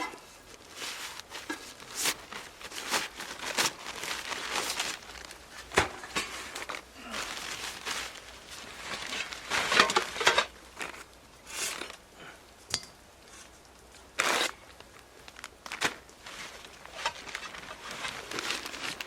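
Something crinkly being crumpled and torn by hand, in irregular bursts with a few sharp snaps among them.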